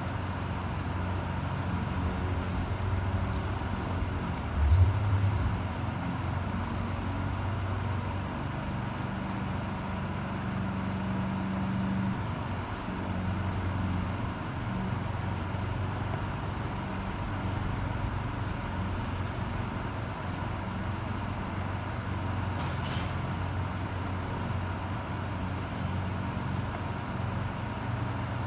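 Steady low rumble and hum of motor traffic. A single low thump comes about five seconds in, and a short sharp click near the end.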